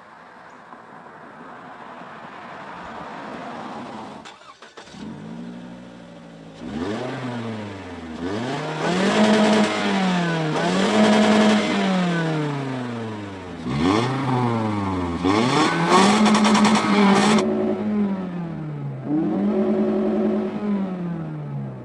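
1999 Toyota RAV4's four-cylinder engine with a cold-air intake, its exhaust note rising and falling as the engine is revved up and let back down about seven times in a row. Before that, for the first few seconds, there is only a low, rising rumble.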